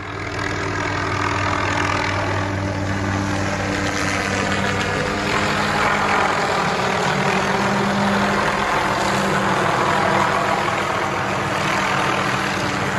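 A large engine running steadily: an even, unbroken mechanical drone with a constant low hum.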